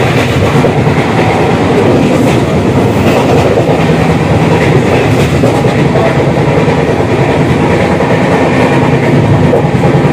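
Moving passenger train at running speed: a loud, steady rumble and rattle of the wheels on the rails, heard from inside the coach.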